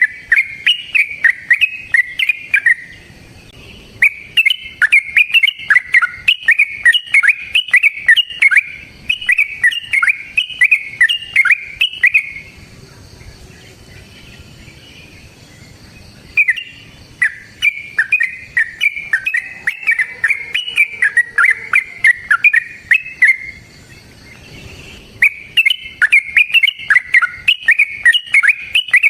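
Yellow-vented bulbul (trucukan) singing a long, rapid, chattering song in loud bouts of several seconds. There are gaps of about two to four seconds between bouts, and faint high ticking runs in the background.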